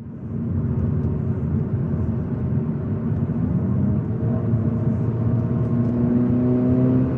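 Hyundai Elantra N's 2.0-litre turbocharged four-cylinder running under way, a steady low exhaust drone that edges up slightly in pitch near the end.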